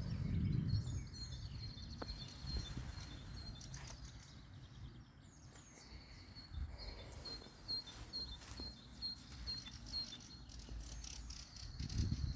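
Birds chirping and singing outdoors, with a run of short repeated high chirps about two a second in the middle, over a low rumble of outdoor noise that swells at the start and again near the end.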